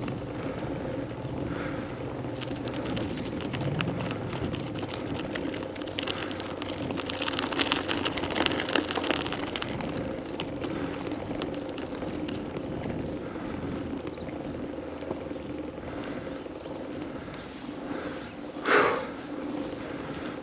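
Bicycle riding noise: tyres on the road and the drivetrain running steadily, with wind on the microphone, growing louder for a few seconds midway. A single short, loud, high squeak comes near the end.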